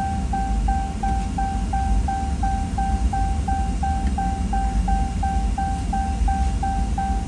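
Electronic beeper sounding a short, high tone about three times a second without a break, over a steady low mechanical rumble.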